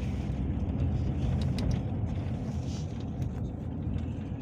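Inside a moving Peugeot Boxer minibus: steady low rumble of engine and road, with a few light clicks.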